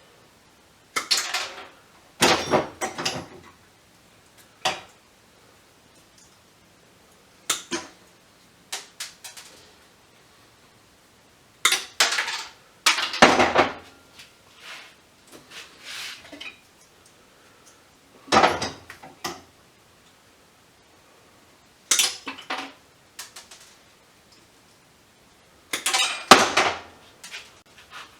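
Small metal scrap parts clinking and clattering as they are handled and sorted while a VFD is dismantled. The clatter comes in short bursts every few seconds, with quiet gaps between.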